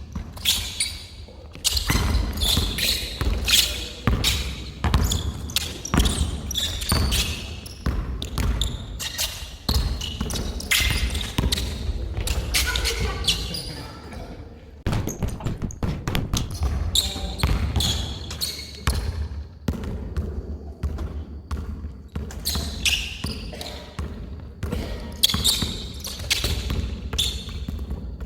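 Basketball being dribbled, bouncing repeatedly on an indoor court, with voices.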